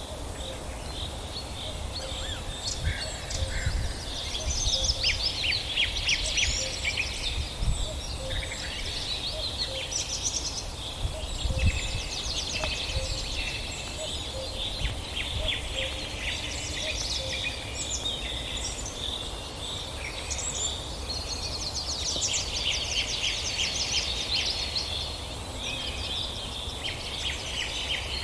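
Forest birds singing, many songs and rapid chirping trills overlapping without a break, over a steady low rumble.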